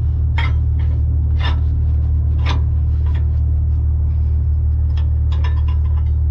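Semi truck's diesel engine idling steadily with a deep, even hum, while a few short metallic knocks and scrapes come at irregular moments.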